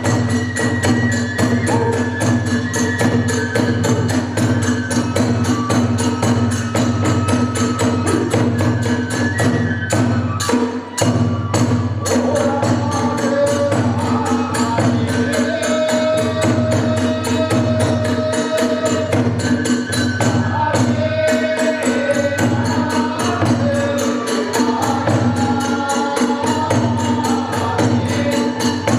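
Hiroshima kagura music: a fast, driving beat of drum and small hand cymbals, with a melody of long held notes above it. There is a brief drop in the beat about eleven seconds in.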